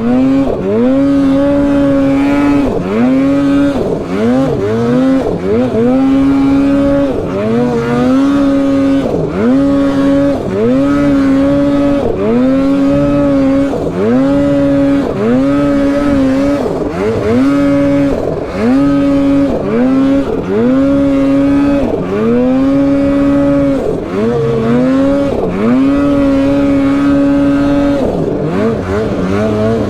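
Mountain snowmobile's two-stroke engine under hard throttle, its pitch dropping and surging back up about once every second or two between stretches held at high revs, as the rider works the throttle through deep snow.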